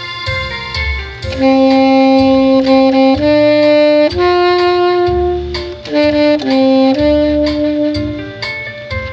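Tenor saxophone playing a slow melody of long held notes, coming in about a second and a half in, over an accompaniment with a steady beat.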